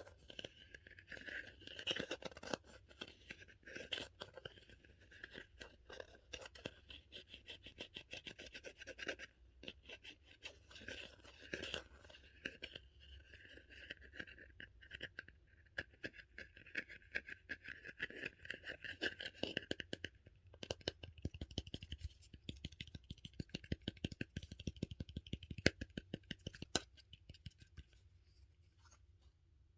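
Close-up crackling and scraping from a dumpling-shaped squishy toy and its plastic being handled, a dense run of small clicks. It turns heavier and deeper for several seconds about two-thirds of the way through.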